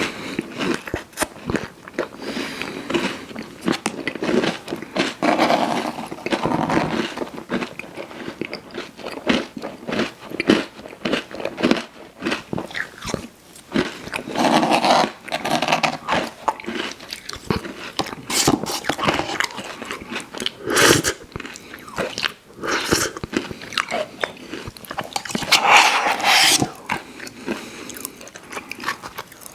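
Close-miked ASMR eating: a person biting and chewing candy, with dense irregular clicks and a few louder bites.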